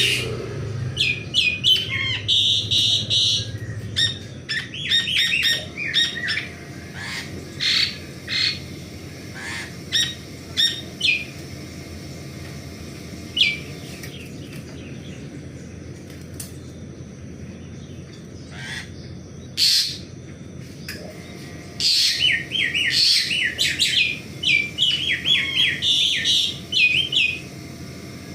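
Pied starling (jalak suren) calling in bursts of short, sharp chirping notes, busy at the start and again near the end with a sparser stretch in the middle.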